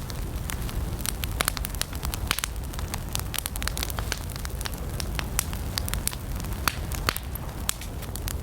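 Wood campfire burning, with frequent sharp, irregular crackles and pops over a low steady rumble of the flames.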